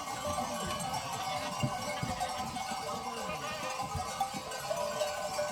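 Many bells on a herd of goats ringing and clanking together without a break as the animals move.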